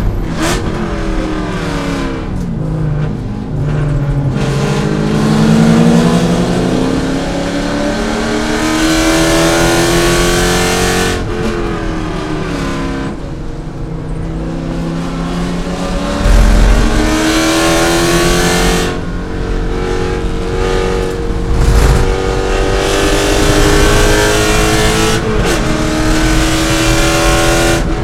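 Race-prepared C5 Corvette's V8 engine at full racing load, its pitch climbing over several seconds at a time, then dropping away sharply for shifts and braking before it pulls up through the revs again.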